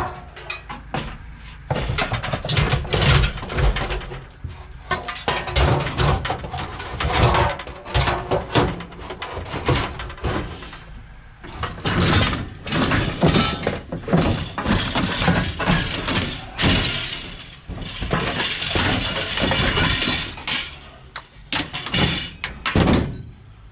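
Junk and rubble being rummaged through and shifted in a skip: continuous clattering, knocks and bangs of hard objects, with some breaking and crunching sounds.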